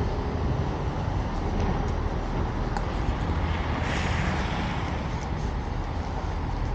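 Street traffic noise: a steady rumble of passing vehicles, with one vehicle passing close and its tyre hiss swelling and fading about four seconds in.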